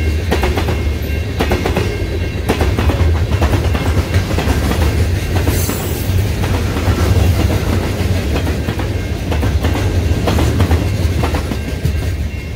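Freight train's tank cars and covered steel-coil cars rolling past close by: a steady low rumble with the wheels clicking over the rails. It eases off near the end as the last car goes by.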